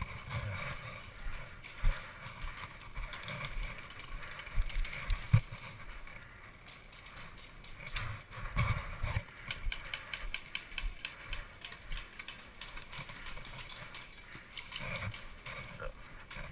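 Irregular knocks and rattles of handling and movement noise, with a run of quick faint clicks in the middle.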